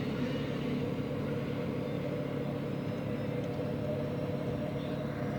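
A steady engine drone holding one pitch throughout, over a background of outdoor noise.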